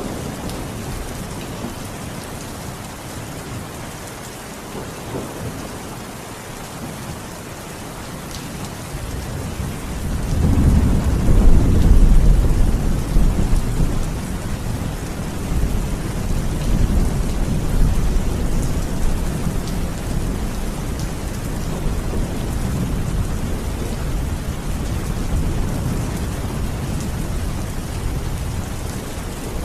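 Steady rain falling, with a long low rumble of thunder rising about a third of the way through, loudest for a couple of seconds, then rolling away slowly under the rain.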